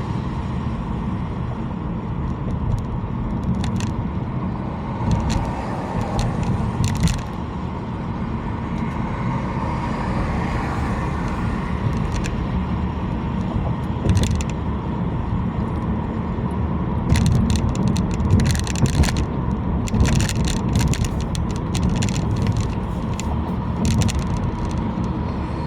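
Steady low rumble of road and engine noise from a car driving on the freeway, with scattered short clicks and rattles, most of them in a cluster in the last third.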